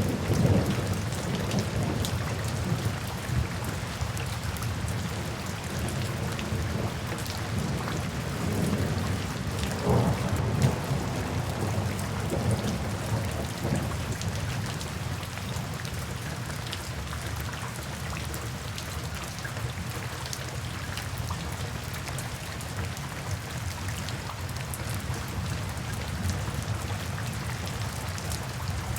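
Steady rain falling, with a low rumble of thunder dying away in the first second and another rolling through about ten seconds in. Scattered small crackles run through it, the sound of a fireplace.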